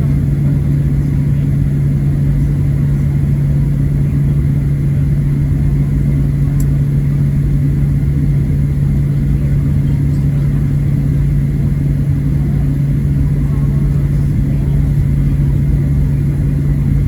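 Steady low drone inside the cabin of a Boeing 737-700 taxiing, its CFM56-7B engines at idle, with a strong constant hum under the rumble.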